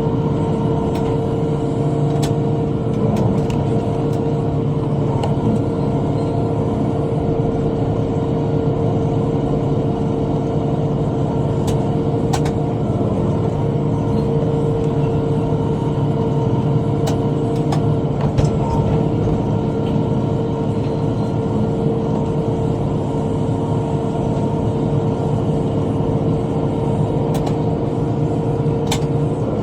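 Tractor engine running steadily under load while driving a rotary cutter (bush hog), with a constant steady tone over the engine drone. A few sharp ticks break through now and then.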